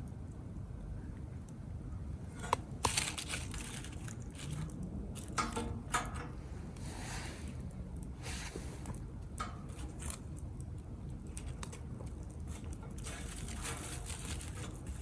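Small wood fire crackling and snapping in a compact cast-iron B6 grill stove, with irregular sharp pops, the strongest a few seconds in, over a steady low rumble.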